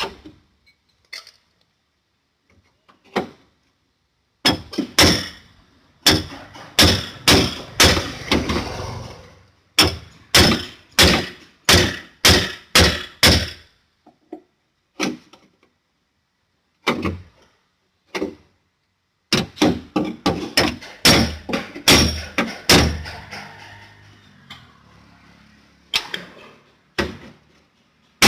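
Hammer blows on the damaged sheet metal of a BMW boot lid, in runs of about two strikes a second separated by short pauses.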